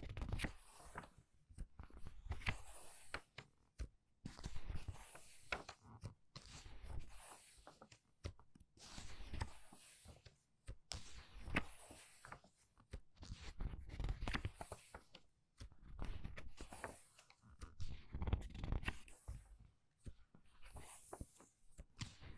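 Book pages being turned quickly one after another, about one every two seconds: paper rustling and flapping with small crisp clicks as each page goes over.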